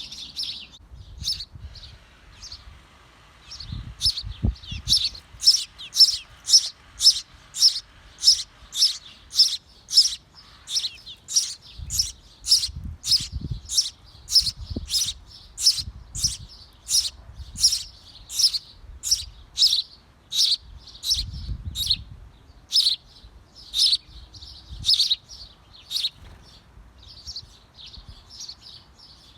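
Small birds at a bird house chirping repeatedly, sharp short calls coming about two a second for most of the stretch, with low thumps and rustling now and then.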